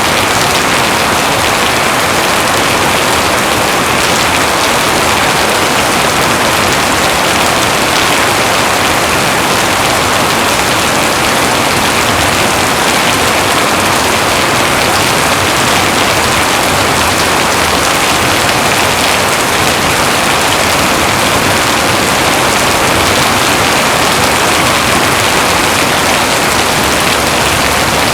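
Heavy rain pouring steadily, a dense even hiss with no thunder or breaks.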